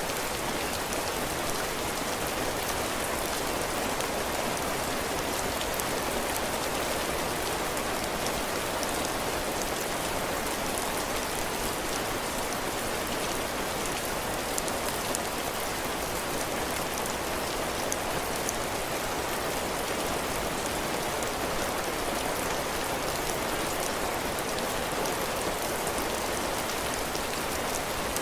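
Heavy rain falling steadily on a cabin porch, its roof and the ground, an even hiss with many fine drop ticks.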